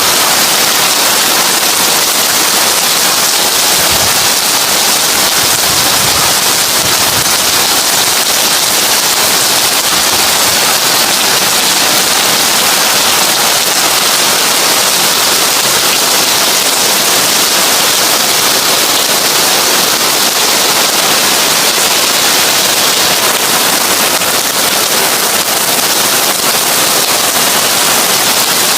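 Heavy rain falling on a tin roof: a loud, steady, dense hiss of countless drops pattering on the metal, with a few heavier low knocks between about four and ten seconds in.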